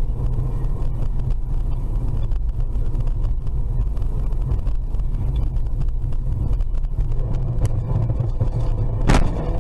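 Car driving: a steady low rumble of engine and road noise, with one short sharp knock or crack near the end.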